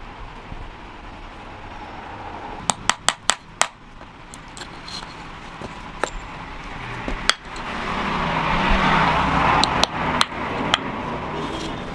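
Hammer striking metal: a quick run of five strikes about three seconds in, then single blows spaced out. A louder steady rushing noise builds over the second half.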